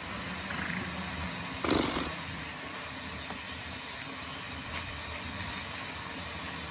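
Steady wind hiss on a helmet or bike camera's microphone during a mountain-bike ride, with a short louder rush about two seconds in.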